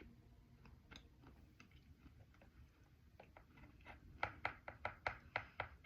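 Close-up chewing of softened white slate (edible clay) thins. Faint scattered crunches at first, then from about four seconds in a quicker run of crisp crunches, about four a second.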